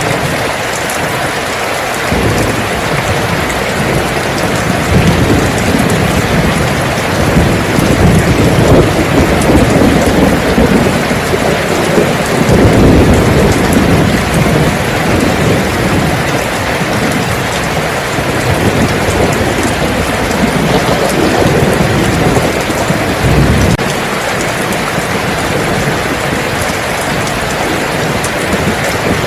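Steady rain falling, with a long roll of thunder rumbling underneath from a couple of seconds in, swelling in the middle and dropping away well before the end.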